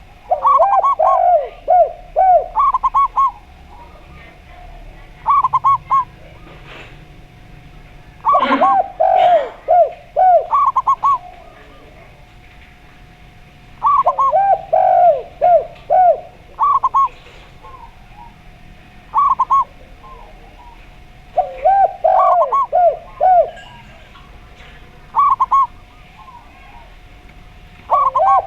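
Zebra dove and spotted dove cooing in repeated bursts of quick, bending coo notes every few seconds, over a faint steady tone. A brief noisy rustle comes about eight seconds in.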